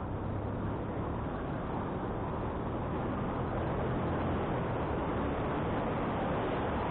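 Wind buffeting the microphone of a moving motorcycle, with the engine's low steady drone underneath; the rush grows gradually louder.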